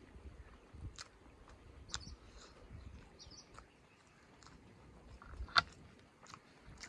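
Close-up chewing of a mouthful of chicken curry and rice: soft wet mouth clicks and smacks, with one sharp click about five and a half seconds in.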